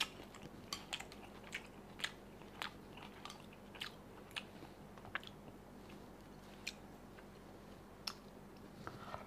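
Faint chewing of a mouthful of fried noodles: scattered small clicks and smacks, one or two a second, fewer in the second half.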